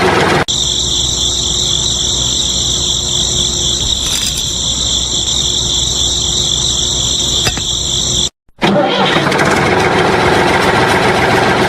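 Small electric motor of a DIY miniature tractor flour mill model running with a steady high-pitched whine that wavers slightly. The whine stops abruptly a little after eight seconds in, and a rougher clattering mechanical noise follows.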